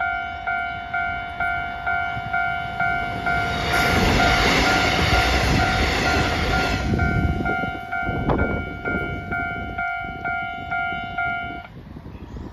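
A level-crossing warning bell rings about twice a second while a Taiwan Railway EMU500 electric commuter train passes, a loud rush of train noise lasting about three seconds in the middle. The bell stops near the end as the crossing clears.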